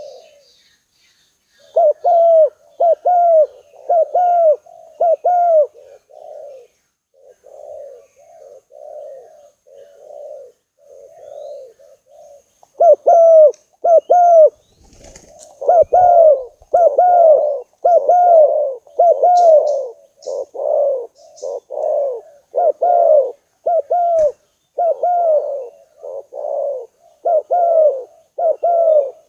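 Spotted dove cooing: a long run of short coos, about one a second, many ending in a brief upward lilt. The coos are softer for a stretch in the middle and loud again from about halfway through. Faint high chirps of small birds sound now and then.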